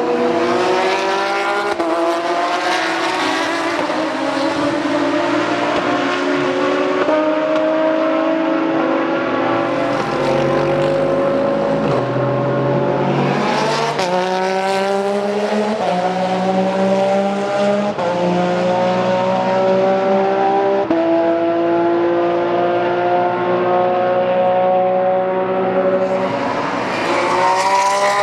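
Racing GT car engine running hard at high revs, its pitch stepping with gear changes. The revs climb sharply about halfway through and again near the end.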